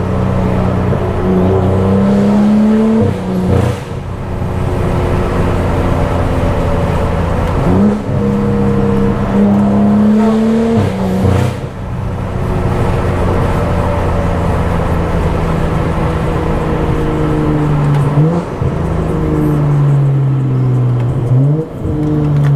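Stage 2+ tuned BMW F10 535i's turbocharged inline-six with a loud aftermarket exhaust, pulling through the gears: the engine note climbs and then drops at each shift, with a sharp crack at two of the shifts. Near the end the revs jump up twice and then fall away slowly as the car slows.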